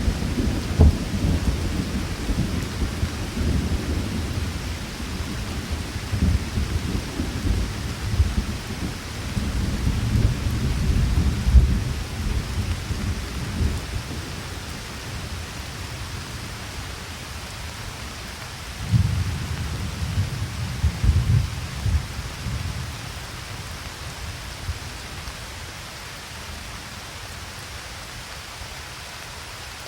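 Thunderstorm: steady rain hiss with rolling thunder rumbling low underneath. The thunder swells about ten seconds in, and again about twenty seconds in, then dies away and leaves only the rain.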